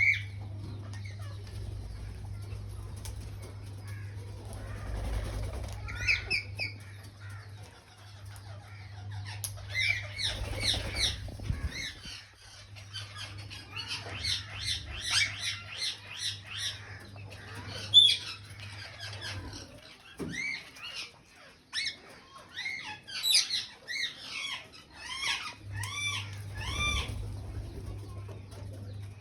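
Alexandrine and Indian ringneck parakeets calling and chattering, with many short arched squawks and chirps that come thickest past the first third. A low steady hum runs underneath and drops out for a few seconds after the middle.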